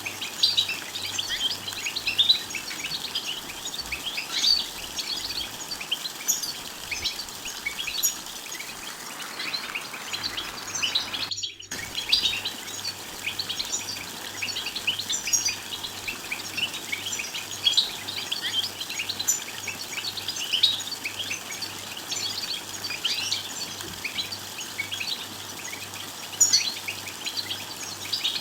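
European goldfinch twittering and singing, a continuous stream of rapid high chirps and trills, with a brief gap about eleven and a half seconds in.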